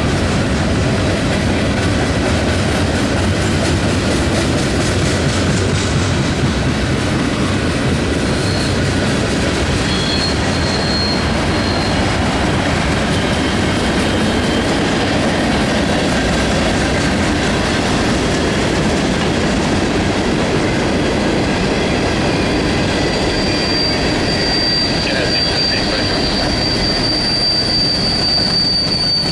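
Train cars rolling past with a steady rumble of wheels on rail. High-pitched wheel squeal comes in briefly about a third of the way in and again, louder, over the last few seconds.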